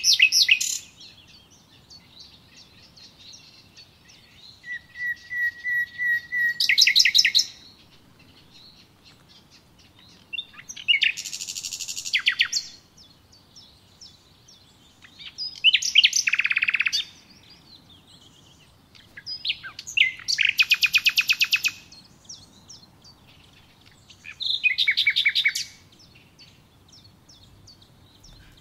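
A songbird singing in separate phrases of rapid, high-pitched trills and chirps, one every four to five seconds; one phrase opens with a held whistled note before the trill.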